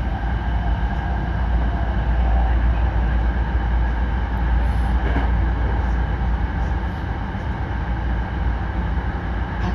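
Hankyu 9300-series electric train running, heard from inside the car: a steady low rumble with faint steady whining tones over it.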